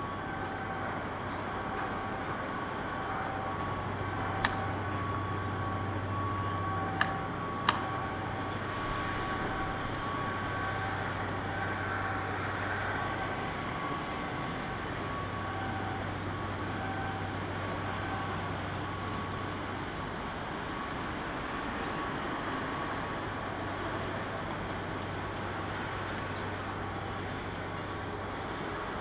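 Shipyard ambience: a steady machinery hum with faint on-off tones, and three sharp metallic knocks between about four and eight seconds in.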